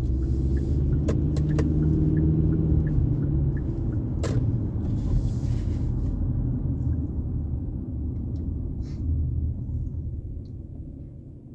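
Steady low rumble of a car in motion, road and engine noise, dying down over the last couple of seconds as the car slows.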